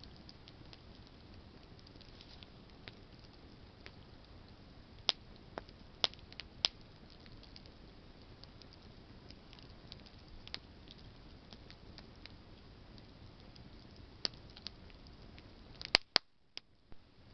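Campfire of burning branches crackling: a steady low hiss of flame with sharp pops every few seconds, a few of them loud and the loudest in a quick cluster near the end, after which the background cuts out for about a second.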